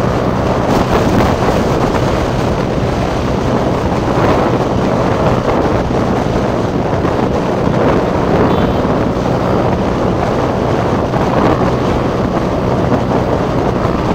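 Heavy wind rushing over the microphone while a motorcycle is ridden at speed, with the engine running steadily underneath.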